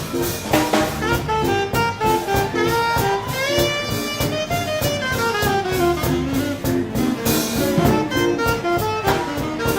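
Live swing band playing an instrumental passage: saxophone and horn lines over drum kit and bass keeping a steady beat, with a sliding horn phrase near the middle.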